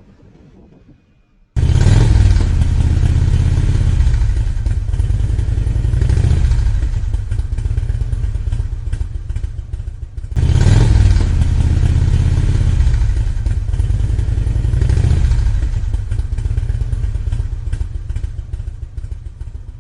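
Motorcycle engine running loud and deep, starting abruptly about a second and a half in, breaking off and starting again about halfway through.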